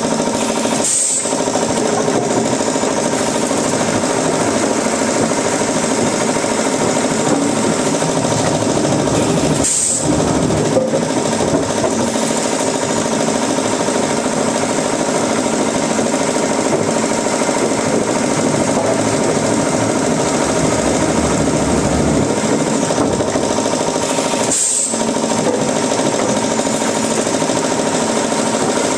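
Wood-processing machinery running steadily: a loud, continuous mechanical noise with short breaks about a second in, about ten seconds in and near the end.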